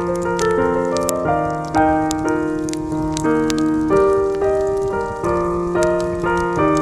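Soft jazz piano background music, with the faint crackle of a wood campfire ticking through it now and then.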